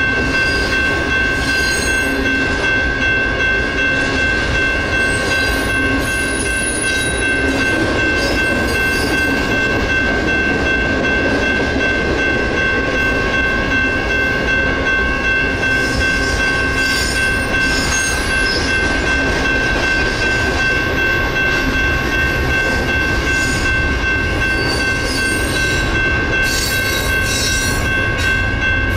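Union Pacific double-stack intermodal freight train rolling steadily through a grade crossing, its wheels and cars rumbling and clattering, under the steady ringing of the crossing signal bells.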